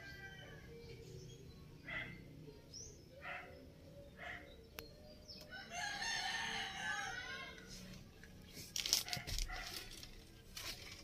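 A single long bird call lasting about a second and a half, about six seconds in, with a few short sounds before it. Near the end a loud knock about nine seconds in is followed by several sharp clicks.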